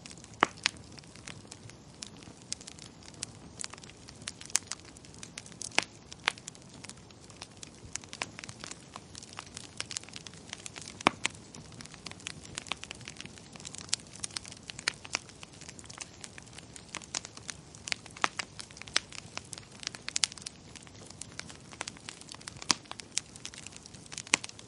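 Fire crackling in a fireplace: irregular sharp pops and snaps, a few louder than the rest, over a soft steady hiss.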